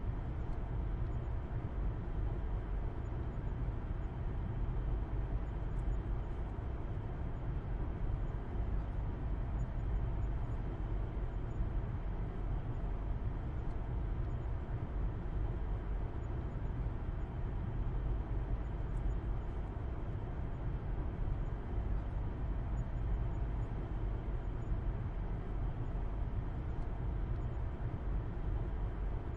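Car driving at a steady speed, heard as an even low rumble of engine and road noise that stays level throughout.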